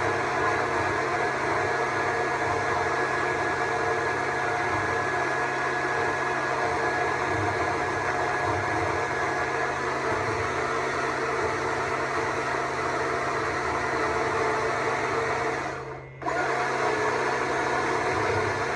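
Stihl MSA 200 C battery chainsaw running steadily as it carves wood. About sixteen seconds in, the motor briefly cuts out and then starts up again.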